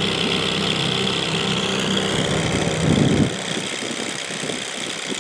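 Boat motor running steadily at trolling speed, swelling briefly about three seconds in and then cutting off suddenly.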